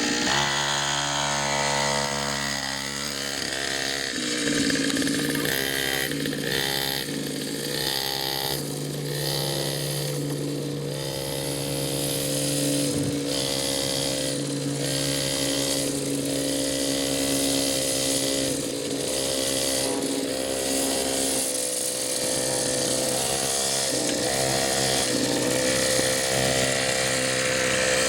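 Small mini dirt bike engine running, its pitch rising and falling again and again as the throttle is opened and eased off.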